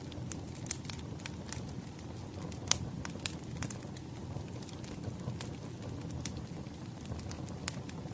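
Wood fire crackling: scattered sharp pops and snaps over a steady low rumble, the loudest pop about two and a half seconds in.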